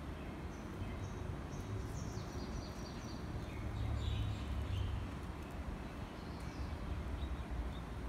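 Birds chirping in short, high calls, mostly in the first half, over a steady low rumble of outdoor background noise.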